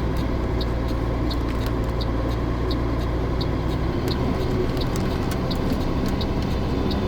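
A truck's diesel engine idling steadily, with a short high tick repeating about every two-thirds of a second. The deepest part of the hum drops away about four seconds in.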